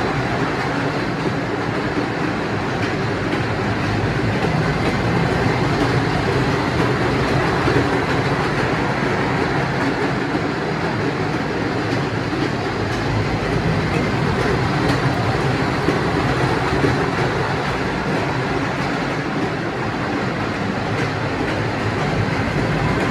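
Mini amusement-park train ride running, a steady even rumble with no pauses or changes.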